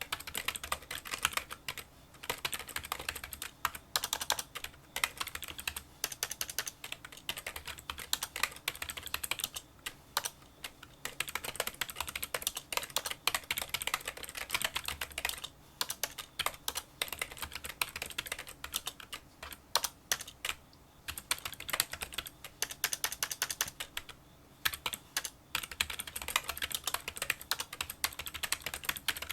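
Fast, continuous touch-typing on a Kinesis Freestyle Solo split keyboard with membrane key switches: a dense stream of small, light clicks, broken by a few brief pauses.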